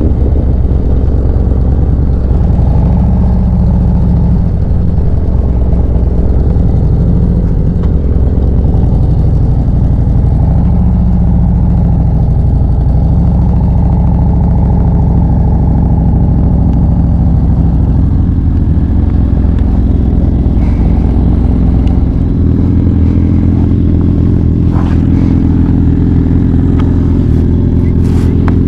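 Motorcycle engine running under way, its pitch rising and falling several times as it accelerates and eases off, then settling into a steadier, lower drone in the latter part.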